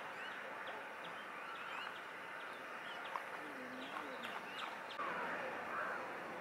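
Small birds chirping repeatedly over a steady outdoor background hiss.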